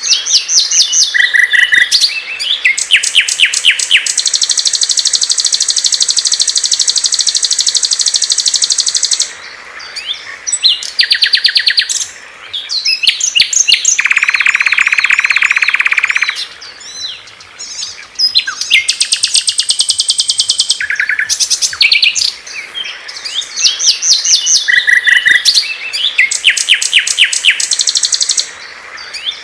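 Small songbirds singing loudly and clearly: rapid chattering runs of notes and long, even trills of a few seconds each, one song pattern giving way to another every few seconds.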